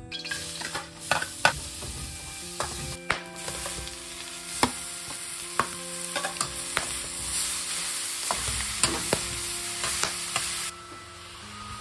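Shredded vegetables frying in hot oil in a metal pan: a steady sizzle with repeated clinks and scrapes of a metal spatula stirring against the pan. The sizzle cuts off suddenly near the end.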